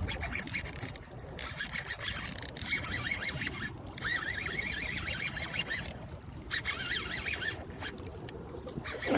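Steady wind and water noise by the sea, with a low rumble, and short runs of high wavering chirps a few times.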